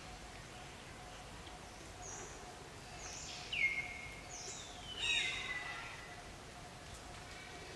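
Wild birds calling in forest: a few short whistled notes, and two louder calls a second and a half apart that slide down in pitch, over steady outdoor background noise.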